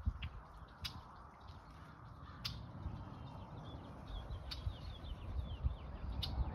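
Small birds twittering in quick, short falling notes, mostly in the middle. Four sharp clicks come at intervals of about a second and a half to two seconds, over a steady low rumble.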